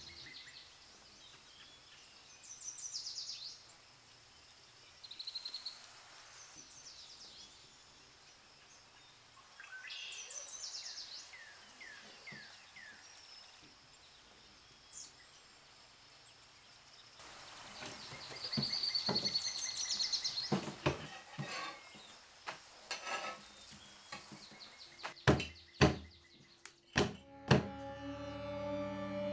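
Birds chirping now and then over a quiet background. Near the end come several sharp slaps as a freshly cooked Kerala parotta is beaten and crushed by hand on a wooden table to loosen its layers.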